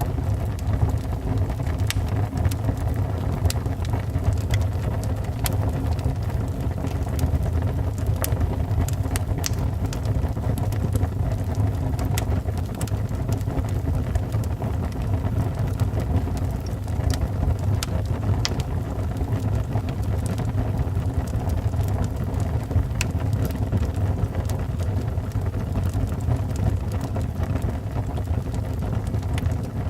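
Wood fire burning in a fireplace: a steady low rush of flames with scattered sharp crackles and pops of burning wood.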